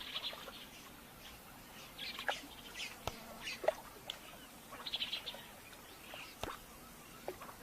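Birds chirping in scattered short calls, with a few sharp clicks among them.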